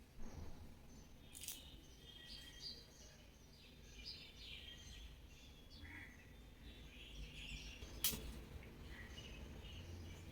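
Beagle whining anxiously in faint, short, high squeaks, restless because it thinks its owner has been hurt. Two sharp clicks sound about one and a half and eight seconds in.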